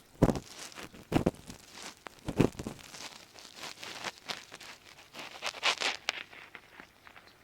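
Ear pick scraping and rubbing inside an ear, recorded very close: a series of crackly scratches, the three strongest in the first two and a half seconds, lighter ones after, fading near the end.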